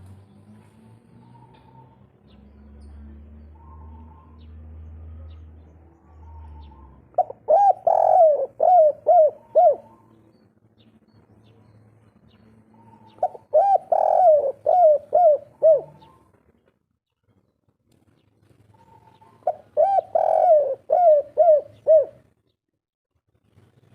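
Spotted dove (derkuku/tekukur) singing its 'kuk 3' cooing song: three bouts of rapid, rhythmic coos, each a run of about seven notes, spaced about six seconds apart. A faint low hum sits under the first few seconds.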